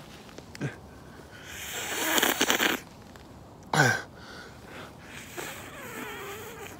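A man noisily slurping and gulping water for about a second, then a short, falling exhale like a gasp of relief just before the halfway point.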